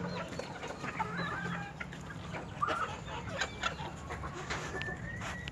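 Chickens clucking and chirping in a pen, with scattered short calls and peeps.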